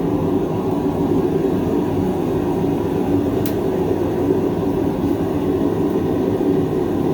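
A forge running with a steady, even rushing noise, heavy in the low-middle range.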